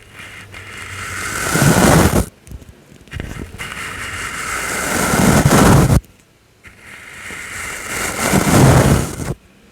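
Soft brush swept across a close microphone in three long strokes, each swelling in loudness with a deep rumble and then stopping abruptly.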